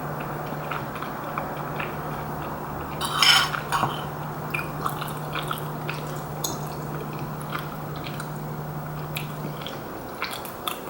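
Someone eating rice cake and dumpling soup: scattered small clicks of utensils against a bowl and quiet chewing, with a louder clatter about three seconds in. A steady low hum runs underneath and stops near the end.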